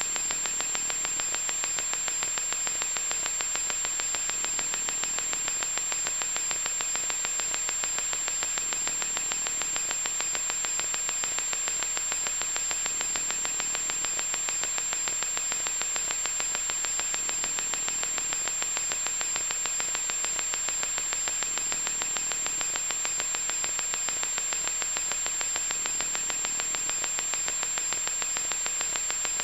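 Loud, steady electronic static: a harsh hiss with a fine crackling texture and a thin high-pitched whine running through it, unchanging throughout.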